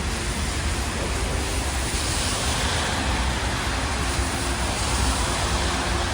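Steady street traffic noise on a rain-wet road: tyres hissing on the wet surface over a constant low rumble.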